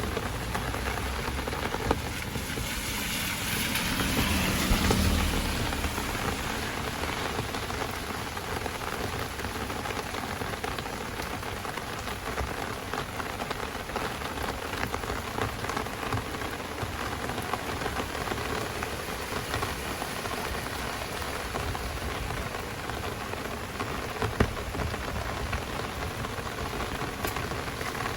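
Heavy downpour rain falling steadily, with a louder swell a few seconds in and a single sharp tap near the end.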